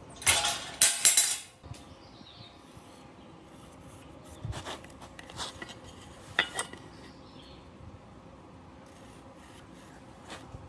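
Metal parts and tools being handled: a loud scrape-and-clatter lasting about a second near the start, then a few scattered metallic clinks.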